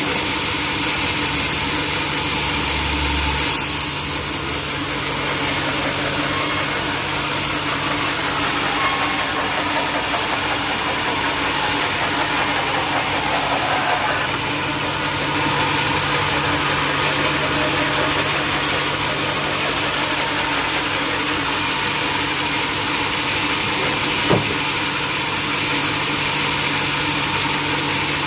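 Sawmill machinery running steadily with a constant low hum and a hiss. Around the middle a tone slides down in pitch, and there is a single sharp knock near the end.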